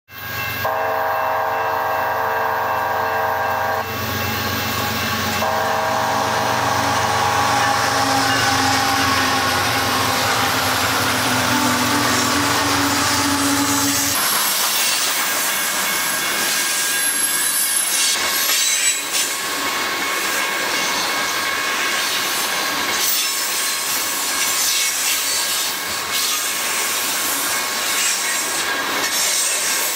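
Freight train horn blowing two long blasts over a low rumble. After that, the train's coal hopper cars roll past, their steel wheels clattering on the rails with a high squeal.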